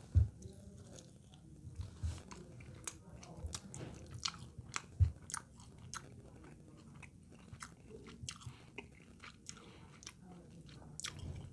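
A man eating close to the microphone: chewing and biting a hamburger plate with fries, chili and macaroni salad, with many small wet mouth clicks and a few low thumps.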